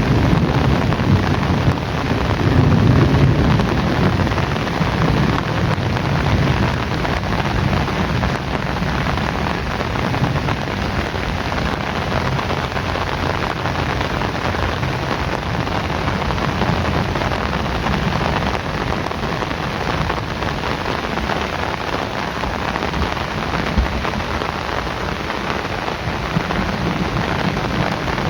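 Heavy rain pouring steadily, with a low rumble of thunder in the first few seconds that fades out.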